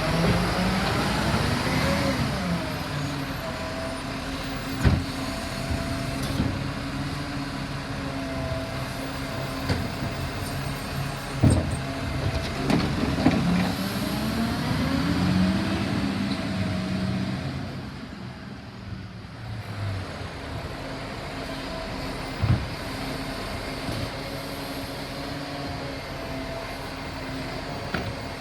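Garbage truck collecting organics bins: the engine's pitch rises and falls as it revs for the hydraulic lift, and sharp knocks come as bins are lifted and emptied, about four times.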